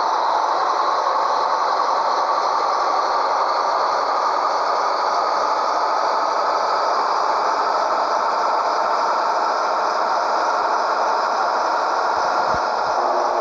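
Scania 113H truck's 11-litre straight-six diesel running under way, with a steady rattle; the engine note climbs slowly over the first several seconds and then holds steady.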